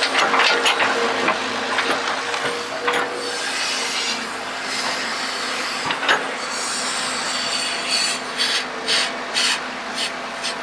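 Model excavator digging: its bucket scrapes and grinds through dirt and small stones over a faint steady motor hum, with a run of short, sharp scrapes near the end.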